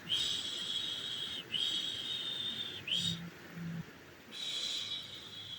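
A woman shushing, repeated long 'shhh' sounds made to soothe a baby to sleep: four shushes with short breaths between, each starting with a quick rise in pitch.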